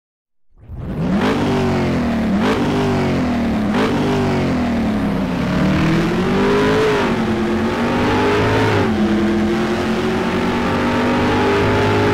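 Car engine accelerating hard through the gears: the pitch climbs and drops sharply at three quick upshifts in the first four seconds, then climbs more slowly in longer pulls and settles to a steady high note.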